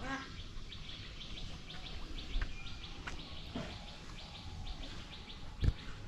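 Small birds chirping: many short, high notes repeated quickly over a quiet outdoor background, with a low thump near the end.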